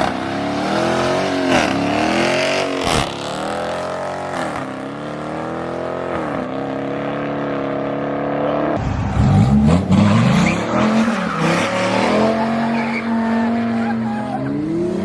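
Car engine revving hard several times, its pitch rising and falling. About nine seconds in it switches abruptly to a louder, lower, rougher run under throttle, then holds a steadier note.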